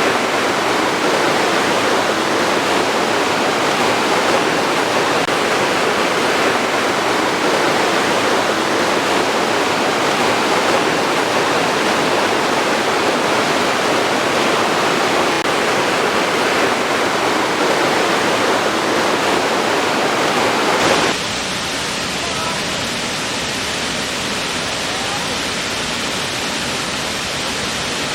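Waterfall: a steady rush of falling water. About two-thirds of the way through it cuts abruptly to a quieter, thinner rush of water.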